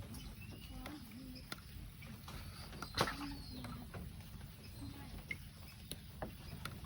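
Low, short cooing calls repeated a few times over a steady low rumble, with scattered light clicks and drips and one sharper click about three seconds in.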